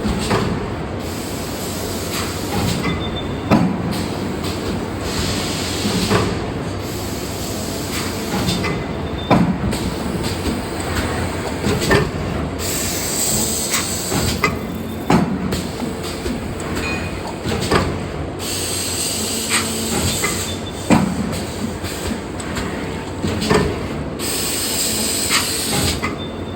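30-ton hydraulic paper plate forming press running over a steady machine drone, with a sharp knock about every two and a half to three seconds as each press stroke closes, and a few longer bursts of hiss.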